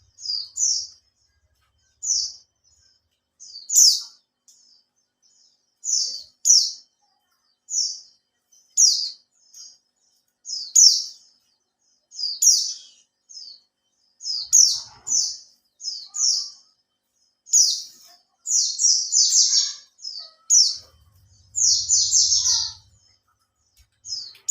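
Pleci (white-eye) songbird chirping in short, high phrases, roughly one a second, coming faster and in longer runs near the end. This is the lively chirping kept as a lure call to get other pleci singing.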